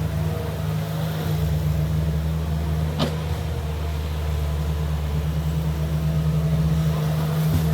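Diesel engine of a heavy earthmoving machine running steadily at a low drone, with one sharp clank about three seconds in.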